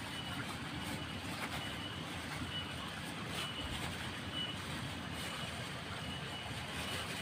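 Steady hiss of falling rain, with a faint, high-pitched chirp that comes and goes every second or so.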